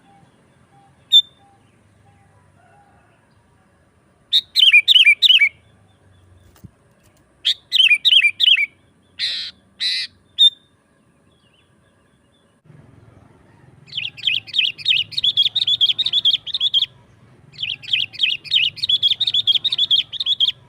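Sooty-headed bulbul (kutilang) calling. A single chip is followed by short runs of rapid whistled notes, two harsh noisy calls, and then, from about two-thirds of the way in, two long runs of fast chattering notes over a low background rumble.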